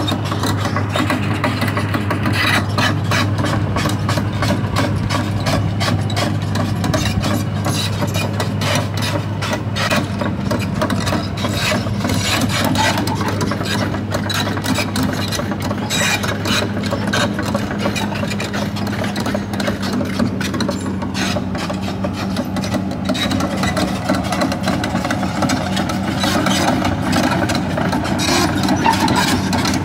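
Sany SR150C crawler rotary drilling rig travelling on its tracks: a steady diesel engine drone under a continual rattling and scraping of the crawler tracks.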